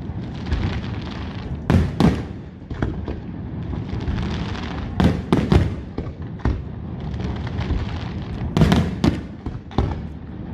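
Aerial fireworks display: shells bursting with sharp bangs at irregular intervals, in clusters about two seconds in, at five seconds and near the end, over continuous crackle.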